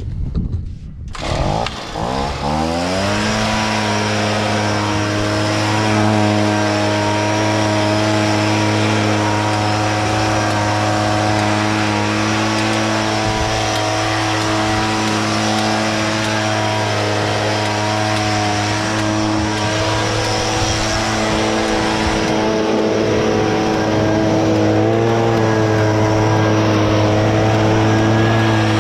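An engine that speeds up in the first couple of seconds and then runs steadily at a fixed speed, under a constant hiss, while compressed air is blown through a combine's engine compartment to clear out dust and plant residue, which can otherwise catch fire.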